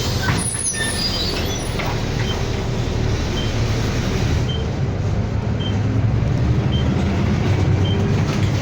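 City bus engine and road noise heard inside the cabin while the bus is driving: a steady low drone that grows a little louder about halfway through, with faint high ticks.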